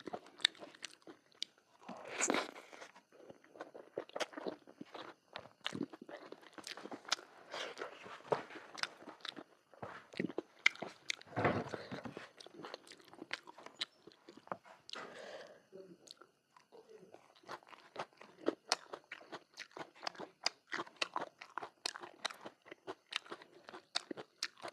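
A person eating: chewing and biting, with many quick wet mouth clicks and crunches. A louder, noisier bite or slurp comes about two seconds in and another at about eleven seconds.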